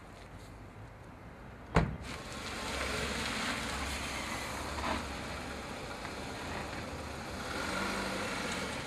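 A short, sharp knock about two seconds in, then a car engine running with a steady low rumble and hiss.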